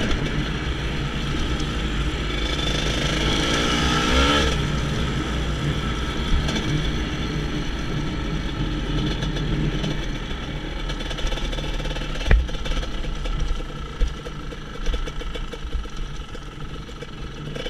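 GasGas EC 250 two-stroke enduro motorcycle engine running under way; the revs climb about two to four seconds in and drop back. One sharp knock about twelve seconds in, and near the end the engine eases off to a lower, uneven beat as the bike slows.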